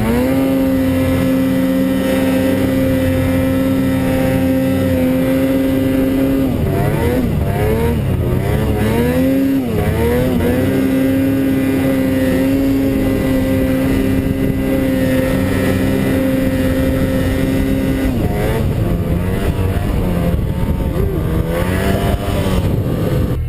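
Snowmobile engine running under load in deep powder, its pitch held high and steady. It dips and climbs again as the throttle eases off and comes back on about seven to ten seconds in, then wavers up and down near the end.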